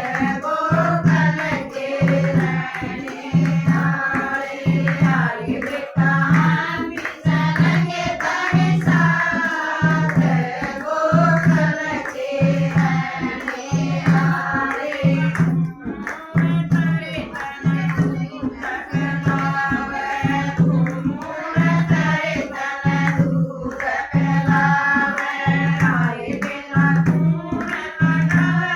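A Haryanvi Krishna bhajan: group singing over a steady drum beat, about one low stroke a second.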